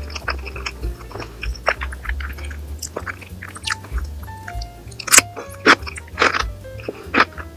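Close-up chewing and crunching of food, with several sharp crunchy bites in the second half, over background music with a steady bass line.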